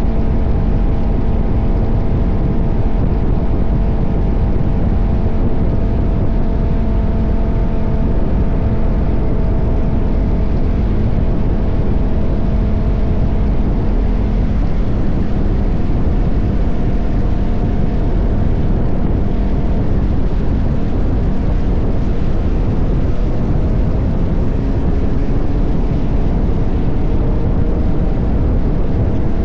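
KTM 1190 Adventure's V-twin engine running steadily under way, its note shifting slightly in pitch, under heavy wind rush on the microphone.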